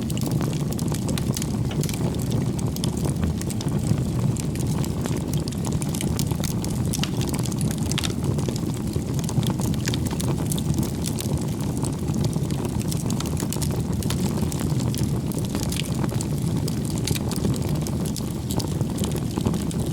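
Firewood burning in a campfire: a steady low rush of flame with frequent small crackles and pops from the wood.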